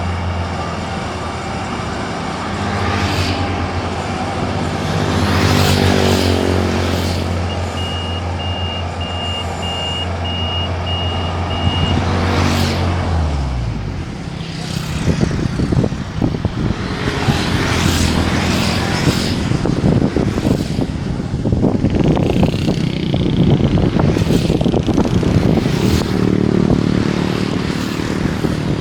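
Rice combine harvester running, its diesel engine giving a steady low drone, with a pulsed beeping alarm for about four seconds in the middle. About halfway through, the engine drone drops away and a dense mechanical clatter and rattle from the harvester's cutting and threshing works takes over.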